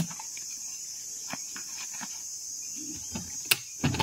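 Steady high chirring of insects, with scattered small clicks and knocks and one sharp knock about three and a half seconds in.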